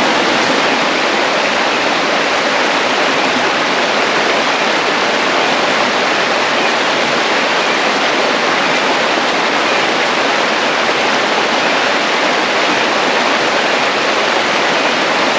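Hillsborough River water rushing, a steady even rush with no breaks.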